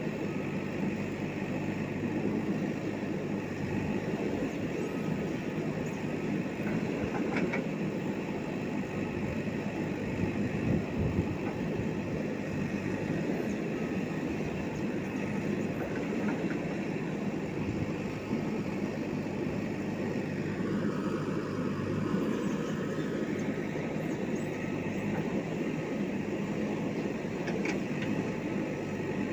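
Diesel engine of a JCB backhoe loader running steadily, with a couple of faint knocks over it.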